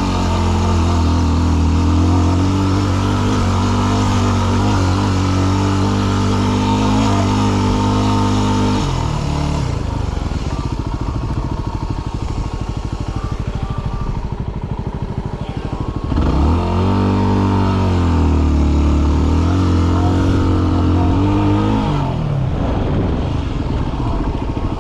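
Yamaha WR250R's 250 cc fuel-injected single-cylinder engine pulling the motorcycle up a steep mountain trail, which the rider finds short of power in the thin air at altitude. It holds steady under load, drops to a low, slow putter about nine seconds in, revs back up around sixteen seconds and eases off near the end.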